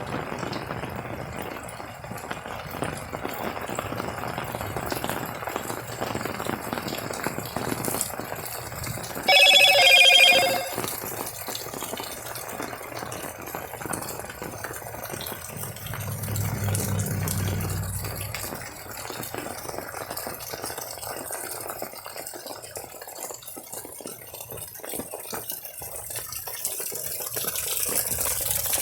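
Steady rain falling. About nine seconds in, a brief, loud, high-pitched tone lasts about a second. Later a low rumble rises and fades over about two seconds.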